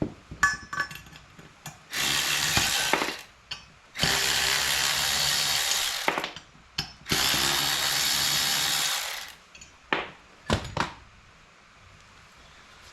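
Cordless power tool running in three steady bursts of one to two seconds each, spinning out tight bolts, followed by a couple of sharp clicks near the end.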